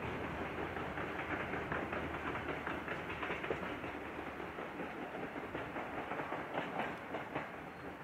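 Limestone freight train's wagons rolling past, wheels clacking over rail joints in a dense run of clicks over a steady rumble, easing slightly near the end.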